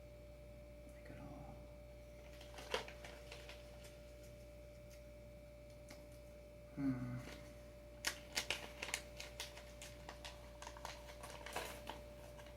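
Loose bolts and small adapter parts clicking and clattering as they are handled: one sharp knock, then from about two-thirds of the way in a run of quick clicks and taps. A short low hum of a voice comes midway, over a faint steady hum.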